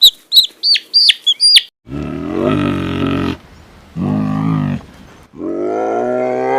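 Rapid, high bird chirps, then after a cut a cow mooing three times, the last moo long and rising slightly in pitch.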